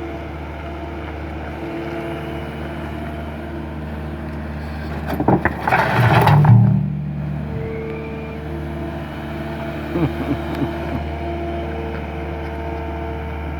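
Skid steer loader's engine running steadily. About five seconds in there is a louder burst of noise lasting about two seconds, and a few short knocks follow near ten seconds.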